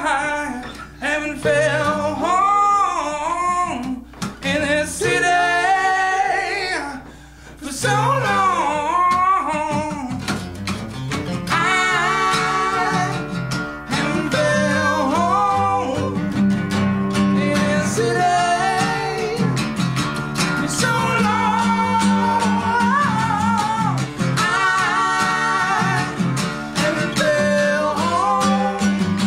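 Live acoustic rock performance: strummed acoustic guitar under a male lead voice singing, with brief pauses between sung lines.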